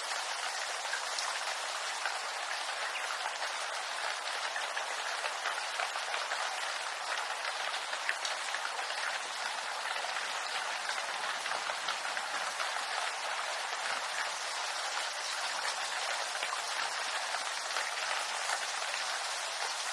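Steady rain falling on bamboo leaves, with many close, individual drop hits over the even hiss of the downpour.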